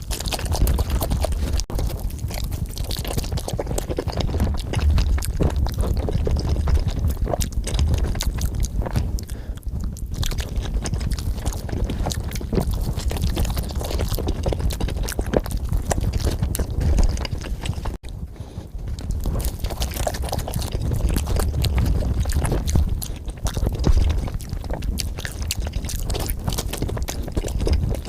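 Close-miked eating of cheese pizza: steady chewing and biting, a dense run of small wet clicks and mouth sounds, with a brief break about two-thirds of the way through.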